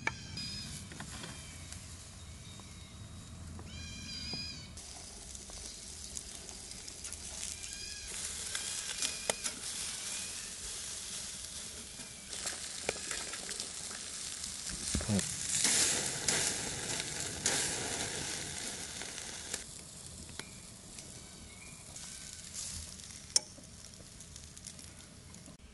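Food sizzling in a hot pan over an open fire, building up partway through and easing off near the end, with scattered light clicks. Two short runs of high-pitched calls come in the first few seconds.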